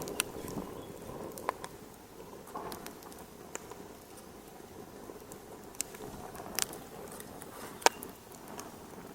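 Wood fire crackling in a fireplace: a soft steady rush with irregular sharp pops, the loudest about eight seconds in.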